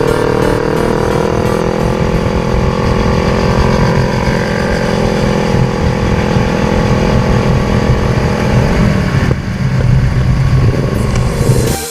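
Motorcycle engine running under way at a steady cruise, its pitch sinking slowly; about nine seconds in it drops off briefly, then the revs climb again near the end.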